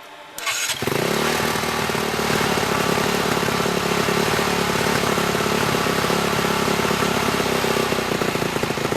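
The combustion engine of a hybrid Formula-style race car starts about half a second in and then idles steadily.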